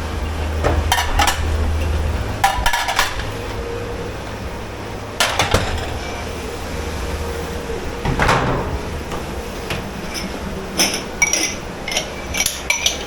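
Dishes and cutlery clattering and clinking as they are handled, in scattered bursts with a quick flurry of clinks near the end, over a steady low hum.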